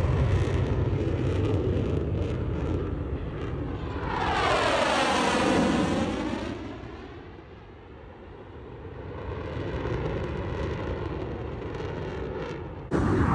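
F/A-18 Hornet jet engines passing overhead: a heavy rumble, then a pass that swells with a sweeping whoosh about four seconds in and fades away. Near the end another loud jet pass begins abruptly.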